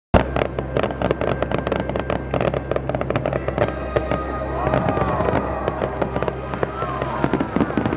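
Aerial fireworks going off in a rapid, dense volley of bangs and crackles that thins out to fewer bursts after about four seconds.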